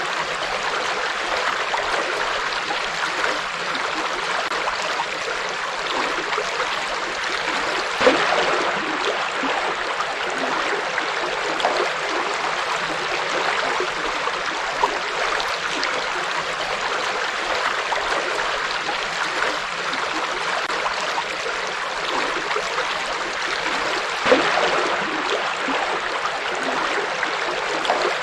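Forest river flowing over rocks: a steady rush of water with small splashes and gurgles, a couple of slightly louder splashes around 8 and 24 seconds in.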